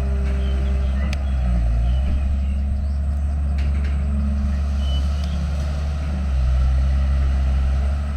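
Heavy diesel engine of an earthmoving machine running under load with a deep rumble, its note shifting up and down a few times and growing a little louder about six seconds in.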